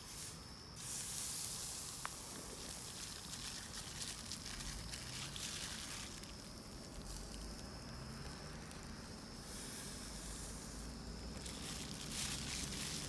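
Hissing and crackling from a campfire grill, swelling and fading in waves of a few seconds.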